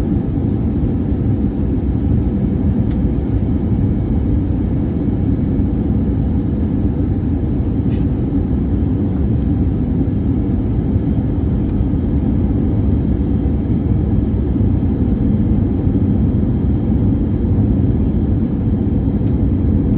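Steady low rumble of an Airbus A320neo's cabin during landing: engine and airframe noise heard from a forward window seat.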